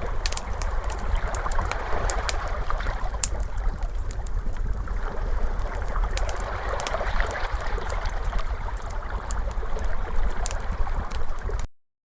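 Crackling fire with sharp scattered pops over the steady wash of ocean waves, cutting off abruptly near the end.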